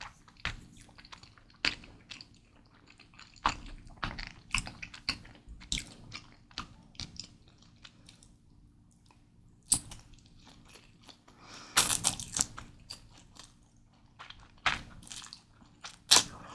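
Close-miked chewing and biting of Mi Goreng instant noodles: irregular short mouth clicks and crunches, with a busier run of bites about twelve seconds in.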